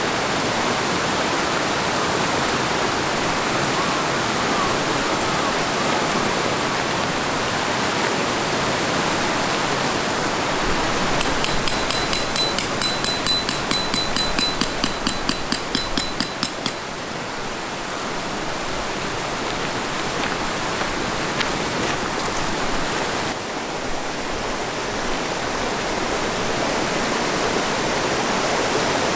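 Steady outdoor rushing noise, like a river or strong wind. Partway through, a quick run of high, ringing ticks, about four or five a second, lasts for about five seconds and then stops.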